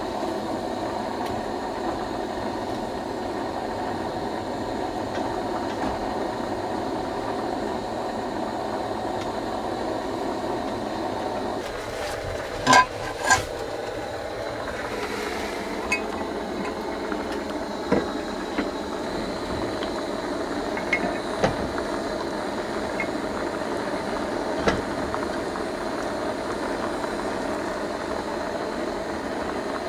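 Steady rain falling. About 13 seconds in there are two sharp clinks with a short ring, and a few lighter knocks and ticks come after.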